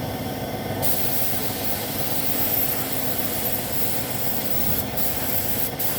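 Compressed-air spray gun hissing as paint is sprayed onto motorcycle body panels. It starts about a second in and breaks off briefly twice near the end, over a steady mechanical hum.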